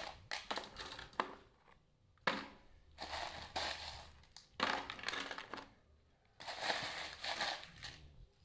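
Ice cubes clattering as they are tipped in a series of irregular bursts into a bucket packed around a can.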